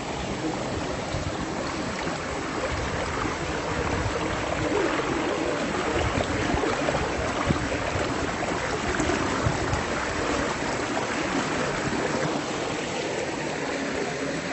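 Flowing river water, a steady rush of noise that grows a little louder a few seconds in.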